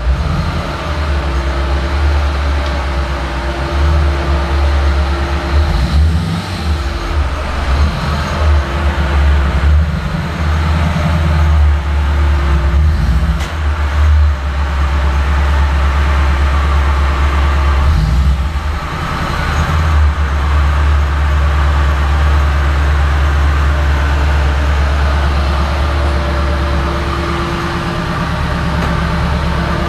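VAZ 2109's four-cylinder engine running as the car creeps into an enclosed garage, its low rumble rising and falling for the first twenty seconds or so, then settling into a steady idle. The engine is running again after its stripped spark-plug hole thread was repaired.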